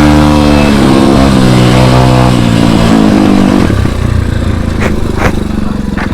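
Dirt bike engine running loud at high revs, its pitch shifting a couple of times, then dropping to a lower, rougher running about four seconds in.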